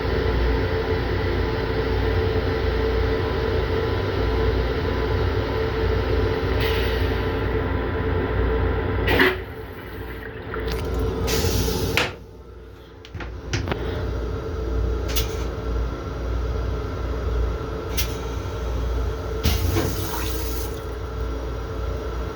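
Toilet in an M7 commuter railcar's restroom flushing, with rushing water over the car's steady hum. A sharp click comes about nine seconds in, and the sound drops off suddenly about twelve seconds in before the hum returns.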